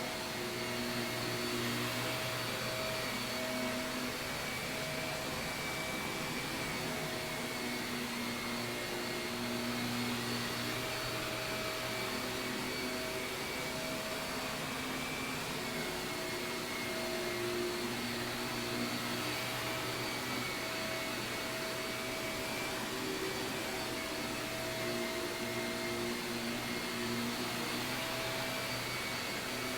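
Shark vacuum cleaner running steadily on carpet, a constant motor whine and airflow hum whose pitch wavers slightly as it is pushed and pulled.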